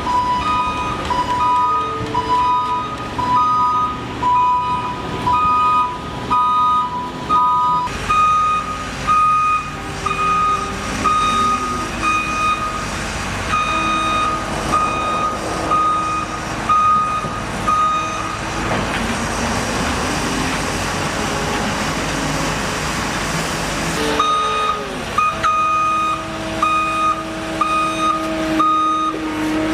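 Construction vehicles' reversing alarms beeping steadily, about two beeps a second. One lower-pitched alarm gives way about eight seconds in to a slightly higher one, over running diesel engines. A loud hiss fills a few seconds past the middle before the higher beeping resumes.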